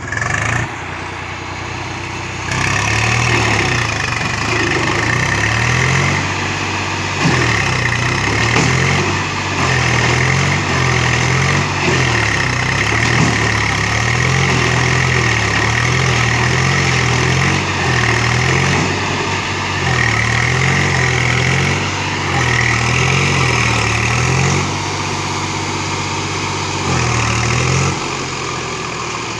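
Tractor diesel engines labouring under heavy load as a Massey Ferguson 1035 DI pulls a Swaraj 735 FE, the low engine note wavering up and down about once a second, with a higher whine that comes and goes. The engines get louder a couple of seconds in and ease off near the end.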